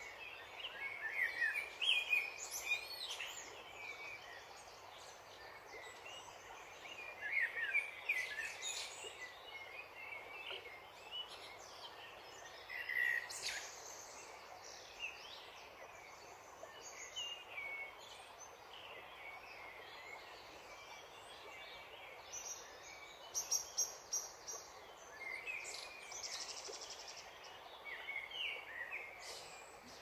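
Birds chirping and calling in scattered bursts over a steady outdoor background hiss.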